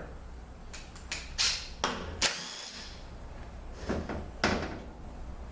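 Sharp metallic clicks and clinks of hand tools and parts as a cover is worked off a 200-4R automatic transmission case on the bench, about seven knocks spread out, one ringing briefly a little after two seconds. A low steady hum lies underneath.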